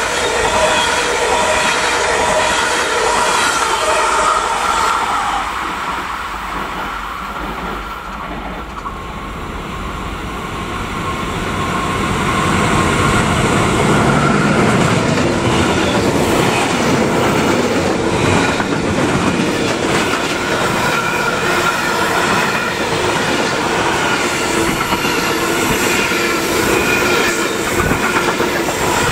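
A double-deck Intercity train running past and fading away. From about a third of the way in, a freight train hauled by an electric locomotive rolls by, its wagons clattering over the rail joints with a thin steady squeal.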